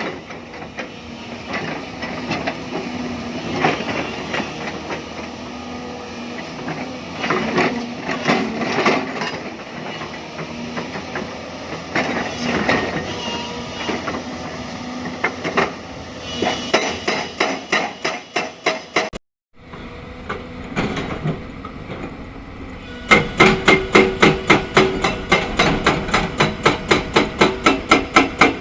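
Hyundai crawler excavator working limestone rock: the diesel engine runs steadily under irregular scraping and knocking of steel on rock. Near the end comes a fast, even run of sharp metallic knocks, about four to five a second.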